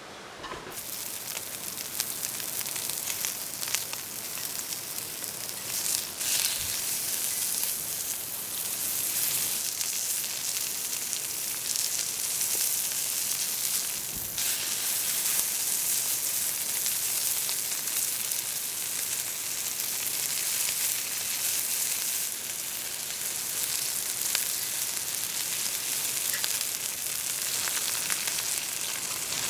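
Pork belly rolled around green onions sizzling steadily as it fries, a dense hiss with a few small pops.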